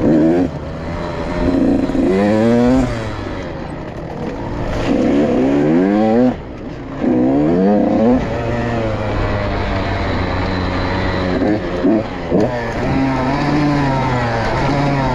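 Motorcycle engine revving up and falling back again and again as it works through the gears. The pitch rises in a series of sweeps, and the throttle shuts off briefly about six seconds in.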